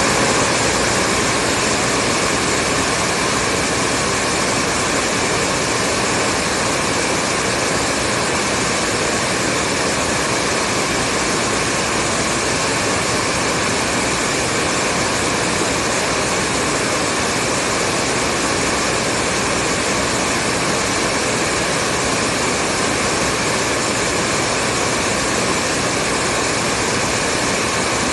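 Hair dryer running continuously: a steady rush of blown air with faint, unchanging motor tones.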